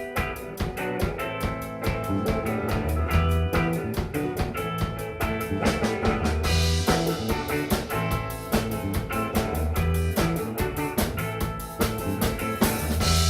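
Live band playing the instrumental opening of a blues-rock song: guitar, bass and drum kit on a steady beat, with a cymbal crash about halfway through and another near the end.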